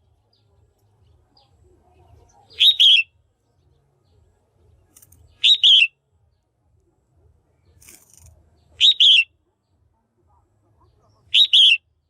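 Female red-whiskered bulbul calling: four short, loud double-note calls, about one every three seconds, each call alike.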